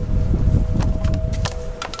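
Vintage Corvair box fan running on low: a steady motor hum and low rumble, with irregular clicks and ticks. The bearings are noisy, which the owner believes may be somewhat worn.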